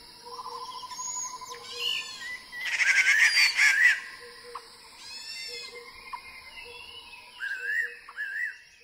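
Several birds singing and calling: varied whistled and chirped notes, with a loud, fast chattering trill about three seconds in, fading out at the end.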